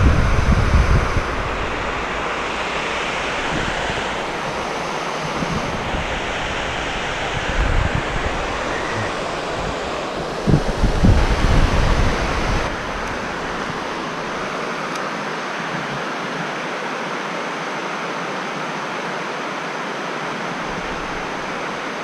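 Strong wind buffeting the microphone in gusts over a steady rushing hiss, with low rumbling blasts at the start, about eight seconds in and again around eleven seconds in.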